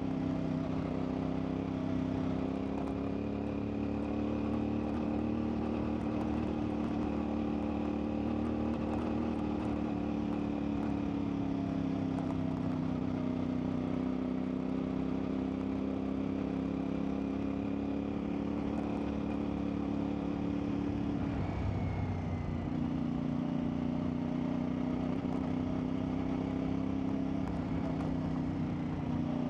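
CfMoto 450MT's parallel-twin engine running steadily under way, its pitch drifting slowly up and down. About two-thirds of the way through the note breaks briefly and then picks up again.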